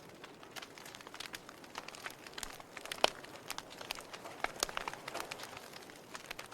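Wood fire crackling: irregular sharp pops and snaps over a soft steady hiss, with one louder pop about three seconds in.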